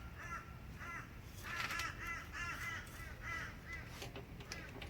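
A bird cawing: a series of short, harsh calls, several in quick succession about a second and a half in, then a few spaced ones.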